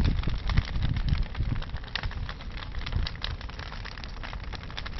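Large wood bonfire crackling, with many quick pops and snaps over a steady low rumble.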